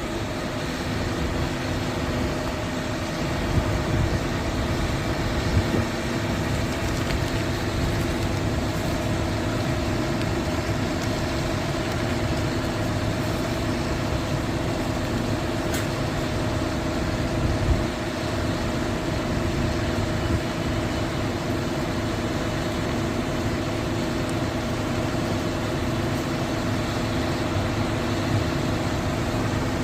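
Hyundai concrete pump truck's diesel engine running steadily, with a few brief knocks.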